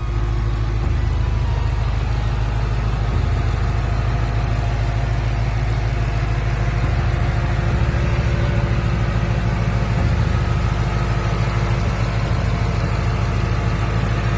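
Supercharged V8 of a 2015 Ford Mustang Roush Warrior idling steadily with the hood up.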